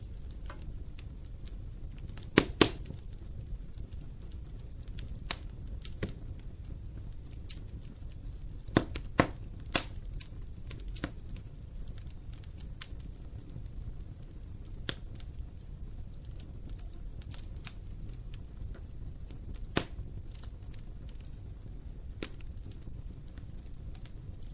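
Wood fire burning in an open fireplace, crackling with irregular sharp pops over a low steady rumble of the flames; a double pop about two and a half seconds in and a cluster of pops around nine to ten seconds are the loudest.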